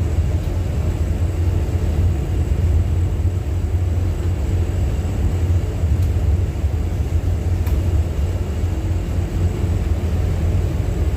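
A loud, steady low rumble, with no breaks or sudden sounds.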